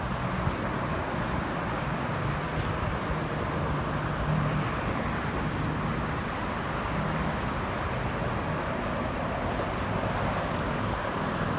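Steady road traffic noise: a continuous rushing hum with a faint low engine drone.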